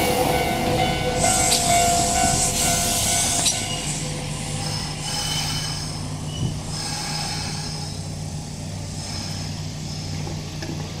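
Kintetsu local electric train coming to a stop at the platform: brakes squealing in high tones with a hiss for the first three seconds or so. Then the standing train gives a steady low hum.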